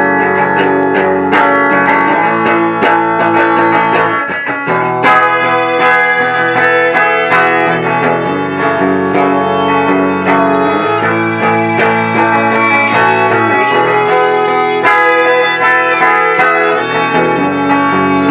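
Live rock band playing an instrumental passage between vocal lines, with electric guitars and drums prominent.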